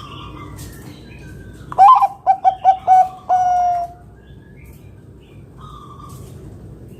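Bangkok-type zebra dove (perkutut) singing its coo phrase about two seconds in: a loud opening note, four short quick notes, then one long held note. Faint shorter bird calls sound before and after it.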